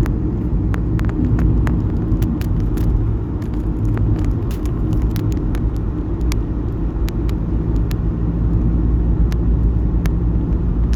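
Car driving along a road, heard from inside the cabin: a steady low rumble of road and engine noise, with many small scattered clicks and ticks over it.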